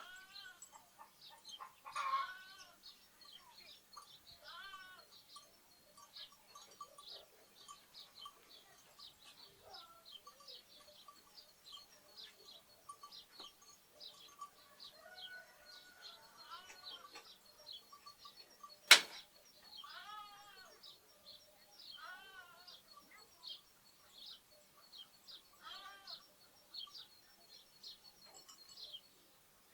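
Sparrows chirping constantly, with lambs giving short bleats now and then. One sharp knock about two-thirds of the way through is the loudest sound.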